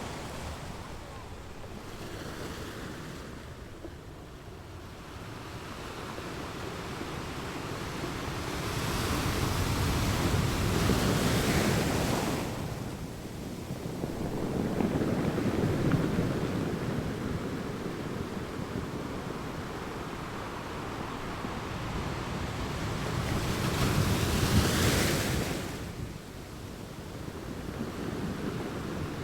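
Ocean waves breaking on a beach, the surf swelling and falling away in slow surges, with two louder breakers about ten and twenty-five seconds in. Some wind on the microphone.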